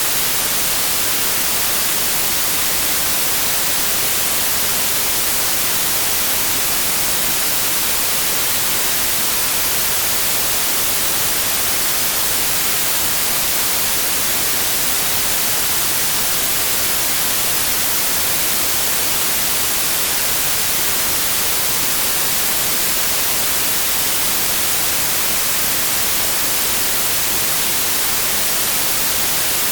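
Synthesized white noise: a steady, even hiss at constant loudness, with no change or events.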